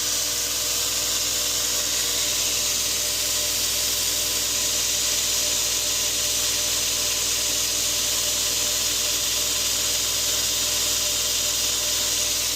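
A 2x42 belt grinder running steadily, its motor humming under a strong high hiss from the belt grinding the steel of a paring knife. The knife is being reprofiled to form a new tip after the old one broke.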